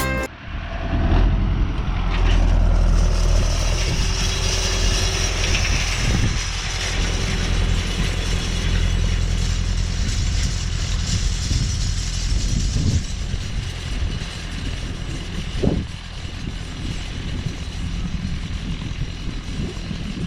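Renault 651 tractor running steadily as it drags a chain harrow, a low engine rumble under a continuous metallic rattle and clatter, with one louder clank about three-quarters of the way through.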